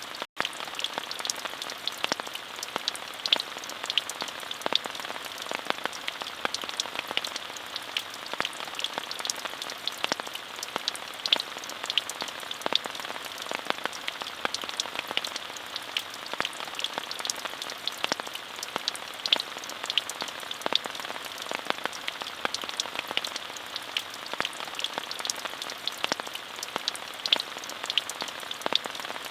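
Steady rain, an even hiss dotted throughout with the sharp ticks of individual drops, with a split-second dropout just after the start.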